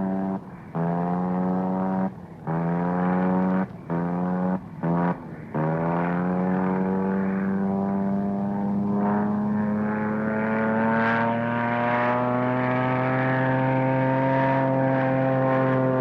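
A motor or engine sputtering, cutting out five times in the first six seconds and swelling back up in pitch each time, then running on steadily with its pitch slowly climbing.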